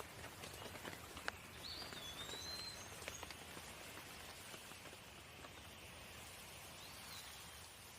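Light rain falling steadily, with scattered drips ticking in the first few seconds. A bird gives a short whistled call about two seconds in and again near the end.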